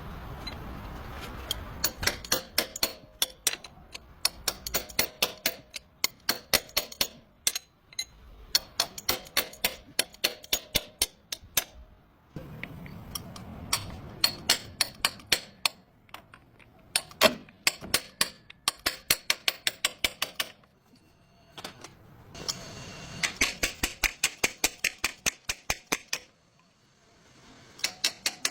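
Runs of quick, sharp metallic taps or clicks from hand-tool work on a vehicle's axle, several strikes a second, broken by short pauses.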